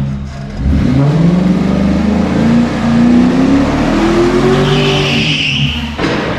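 Twin-turbo Ford 4.6 V8 under hard acceleration, its note climbing steadily in pitch for several seconds. A high rushing sound joins it near the end, then it cuts off suddenly.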